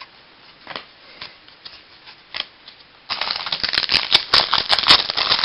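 Trading cards being handled with faint rustles and clicks, then about three seconds in a dense crinkling starts as a foil baseball card pack wrapper is torn open and worked.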